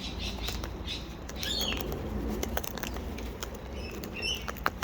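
Birds cracking and crunching seed with their beaks: an irregular scatter of small sharp clicks, with a couple of short chirps.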